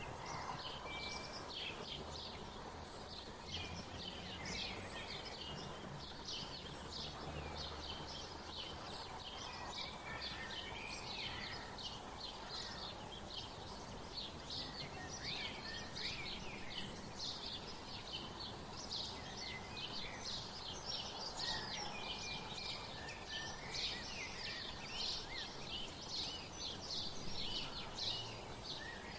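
Many small birds chirping and twittering all through, short high calls overlapping one another, over a steady outdoor background hiss.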